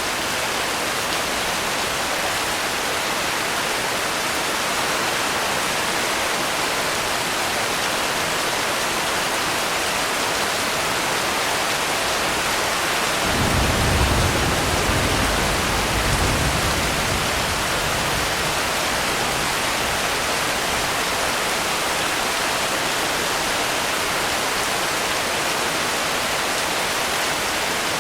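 Steady heavy rain, an even hiss. About halfway through, a low rumble swells twice and fades over a few seconds.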